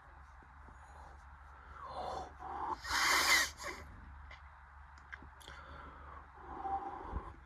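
Bridgestone Altus Newing washing machine tumbling its load on a soft rinse: water and wet laundry swishing in the drum over a steady low hum, in repeated swells, the loudest about three seconds in.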